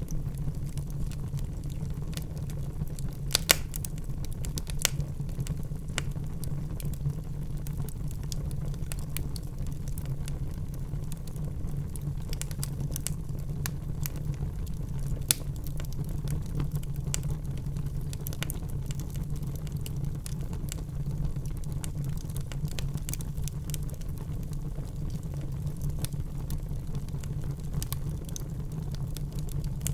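Wood fire in a fireplace crackling: scattered sharp pops over a steady low rumble, with two louder pops, one a few seconds in and one about halfway.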